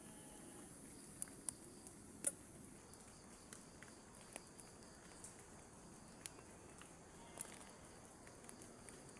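Faint steady rain hiss with scattered drops ticking at irregular moments, the loudest about two seconds in, as on a tarp flysheet.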